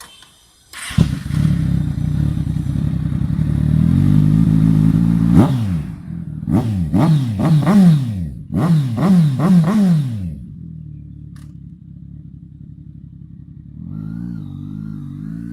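Kawasaki Ninja 1000's inline-four through dual M4 aftermarket exhausts: it comes in sharply about a second in and idles, then is revved in a run of quick throttle blips, each rising and falling, before dropping back to idle. Near the end the revs begin to climb again.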